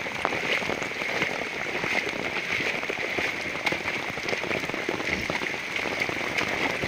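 Heavy rain falling: a steady hiss with many individual drops ticking close by.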